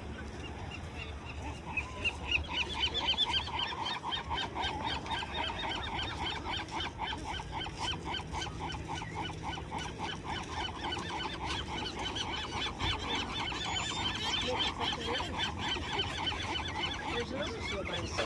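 A crowd of seabirds calling over one another in a dense, rapid, honking chorus that starts about two seconds in and keeps going.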